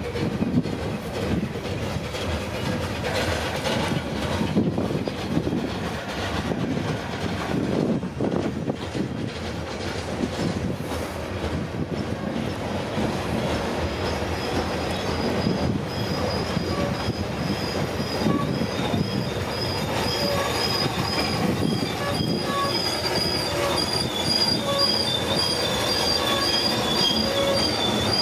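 Loaded coal hopper cars rolling past, steel wheels rumbling and clacking on the rails. About halfway through the wheels start squealing, short high squeals that come more and more often toward the end.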